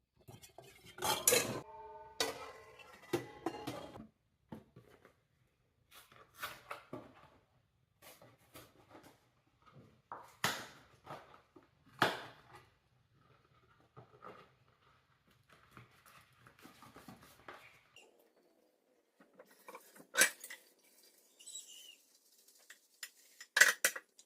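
Irregular clatter of hard objects being handled: scattered knocks and clinks, a few of them ringing briefly in the first few seconds, with the loudest strikes about ten, twelve, twenty and twenty-three seconds in.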